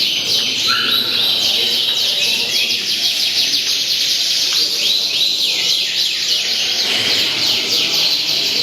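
Many caged songbirds singing at once, a dense, continuous tangle of overlapping chirps and quick falling whistles, with a faint low murmur underneath.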